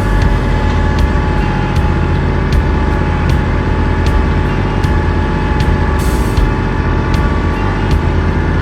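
A vehicle engine running steadily, with sharp clicks repeating about every two-thirds of a second.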